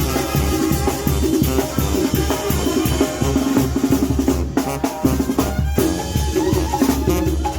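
Live band music for a Oaxacan calenda procession, with a steady driving beat on bass drum and snare under the melody.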